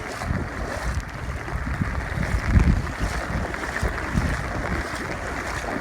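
Heavy rain and strong wind, with gusts buffeting the phone's microphone in low rumbles, the strongest about two and a half seconds in.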